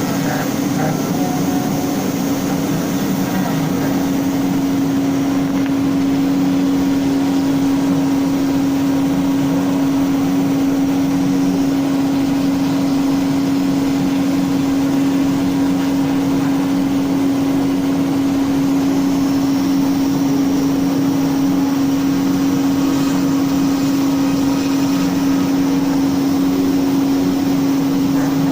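CNC router spindle running steadily while the bit cuts wood, a constant hum with one strong steady tone over a wash of cutting noise.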